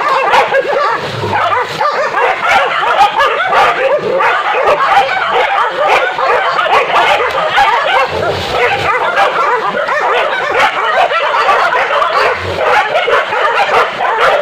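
A pack of hunting dogs barking and yelping in a continuous, overlapping chorus as they bay a wild boar.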